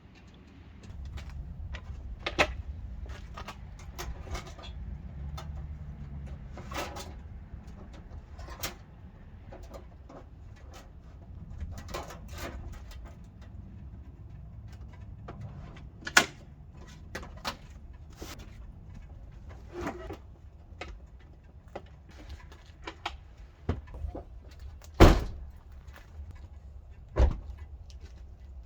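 Scattered clicks and knocks of things being handled and set down, over a low steady rumble, with a few sharp thumps; the loudest thump comes near the end.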